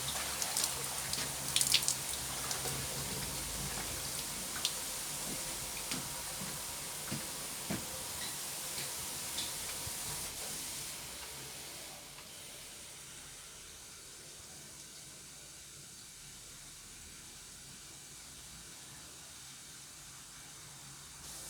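Water running from a tap, with scattered clicks and clinks over the first half. The flow gets quieter about twelve seconds in.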